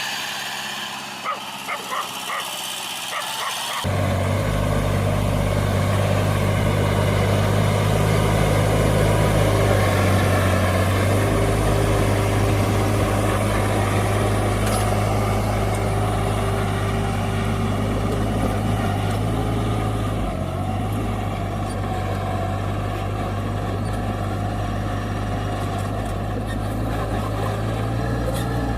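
A mini tractor's engine running steadily, cutting in abruptly about four seconds in; before that, a quieter stretch with a few short sharp sounds.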